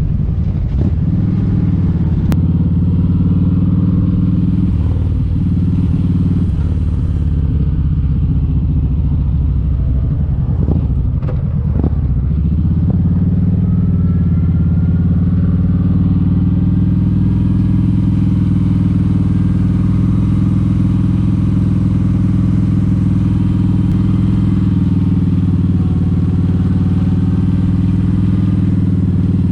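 Motorcycle engine running steadily at close range, with a low, even note. The engine note wavers and changes briefly about ten to twelve seconds in, then settles back to a steady run.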